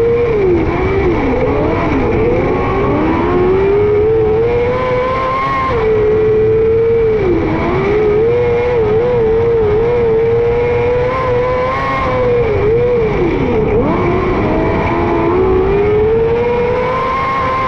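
Micro sprint car's 600cc motorcycle engine at racing speed on a dirt oval. The revs drop sharply as it backs off for each turn and climb again down the straights, about every five to six seconds.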